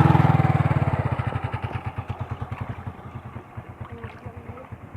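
Small engine running with a quick, even firing beat, loud at first and fading steadily over the first three seconds until it is faint.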